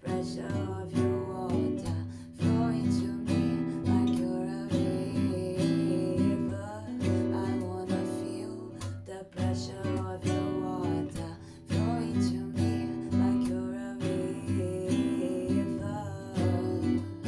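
Acoustic guitar strummed in a steady rhythm: an instrumental passage of a solo singer-songwriter's song.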